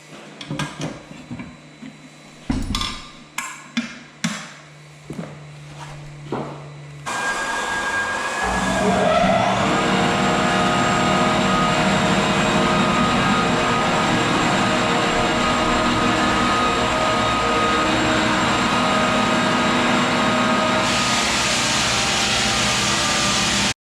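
Knocks and clacks, then a big floor sander starts about seven seconds in and runs steadily on an old fir floor with coarse 36-grit paper, with a brief rising whine as it comes up to speed. It cuts off abruptly near the end.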